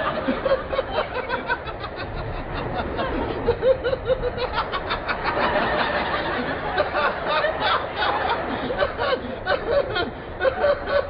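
Studio audience laughing, a sustained wave of many people's laughter that rises and falls.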